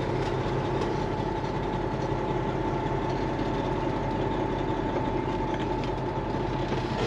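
Semi-truck diesel engine running steadily at low speed during slow maneuvering, with a thin steady whine above the engine hum.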